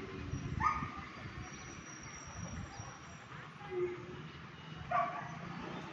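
A dog barking twice, about a second in and again near the end, over a steady background hiss.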